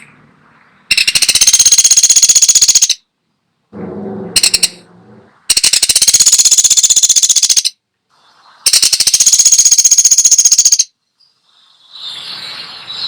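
Pelatuk sampit, a small woodpecker, giving three high, rapid trilled calls of about two seconds each. A brief lower, rougher sound comes between the first and second trills.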